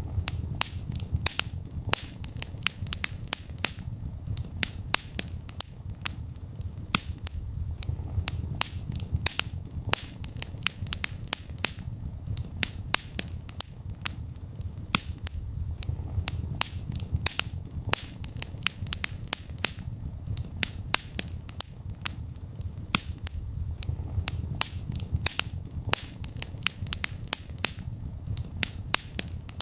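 Wood fire burning in a fireplace: a low rumble of flames under frequent sharp crackles and pops at irregular intervals.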